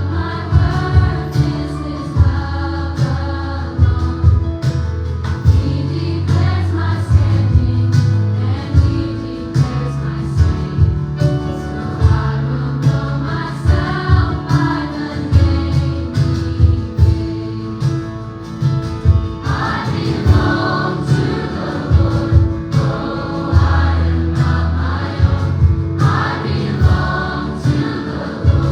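Gospel choir singing with a live band: bass, drums with a steady beat, and keyboard.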